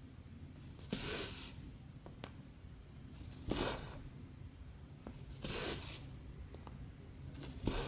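Cotton embroidery thread drawn through cross-stitch fabric in four short swishes about two seconds apart, with a few faint clicks between.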